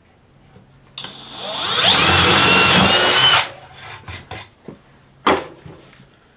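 Power drill spinning up and boring a hole through a small wooden block: its whine rises for about a second, holds steady, then stops after about two and a half seconds. A few light knocks follow, then one sharp click.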